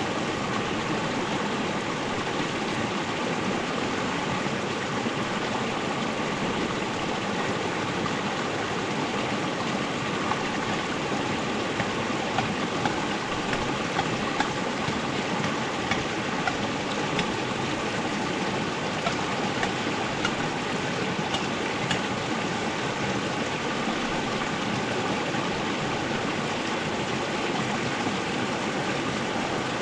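Steady rush of flowing river water, with a few faint clicks in the middle.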